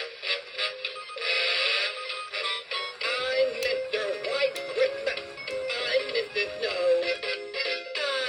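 Gemmy animated snowman's small built-in speaker playing its song, a sung melody over music that sounds thin, with no bass. About three seconds in, a faint low rumble joins underneath.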